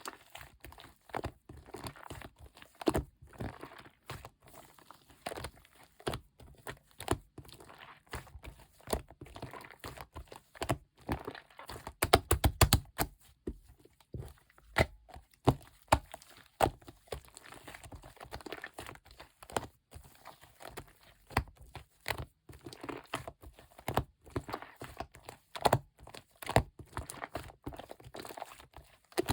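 Hands squeezing and stretching shaving-foam slime, giving a steady stream of small sticky clicks and pops, with a quick run of louder pops about twelve seconds in.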